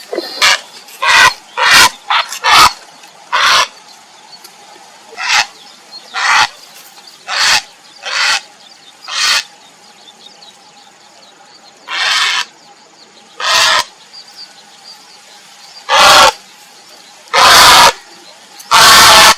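Grey heron calling for a mate with short, harsh calls. A quick run of calls in the first few seconds is followed by single calls about a second apart, then longer, louder calls near the end.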